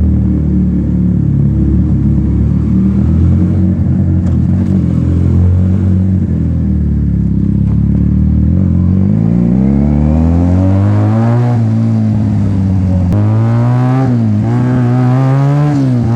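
Benelli TNT 300 parallel-twin engine through a loud free-flow slip-on exhaust. It runs steadily at low revs for about half the time, then revs climb and fall back several times as the bike accelerates through the gears.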